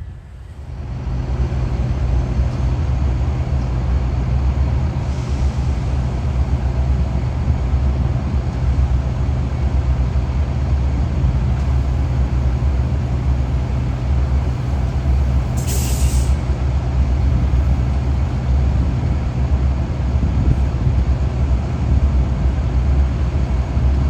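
Diesel freight locomotives running close by with a steady, heavy low engine drone that swells in about a second in. A short burst of air hiss comes about two-thirds of the way through.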